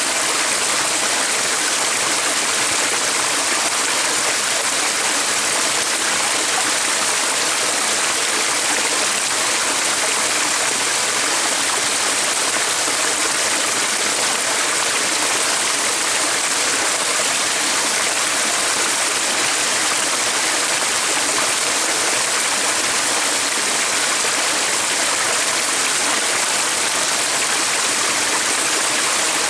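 Running water rushing steadily, an even hiss with no change in level.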